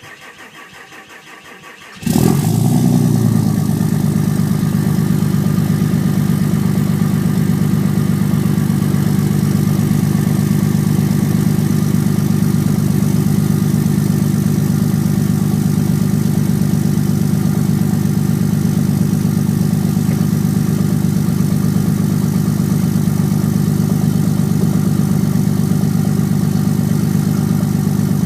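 2007 Ram 3500 pickup engine cold-started after sitting in sub-zero cold: the starter cranks for about two seconds, then the engine catches with a jump in loudness and settles into a steady cold idle.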